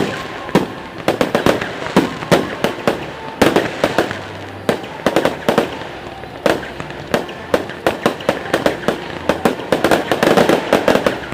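Fireworks display: a rapid, irregular string of shell bursts and bangs, several a second, growing denser near the end.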